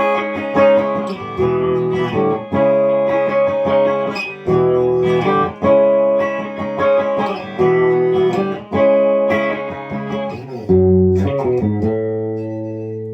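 Amplified semi-hollow electric guitar, a Chinese copy of a Gibson DG-335, played on its bridge pickup: chords strummed in a steady rhythm, with the last chord left to ring out and fade near the end.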